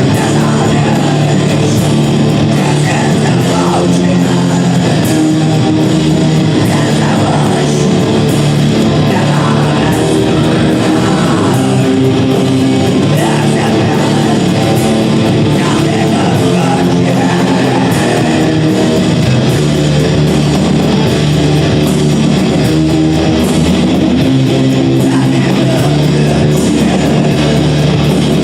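Live rock band playing loud, guitar-driven music, with sustained chords over bass and drums.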